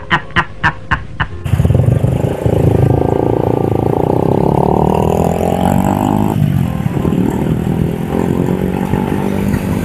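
A Honda CBR150R's single-cylinder engine under way, its pitch climbing steadily as the bike accelerates, then dropping sharply about six seconds in at a gear change before building again, over steady wind and road noise. It opens with about a second of quick, evenly spaced beats.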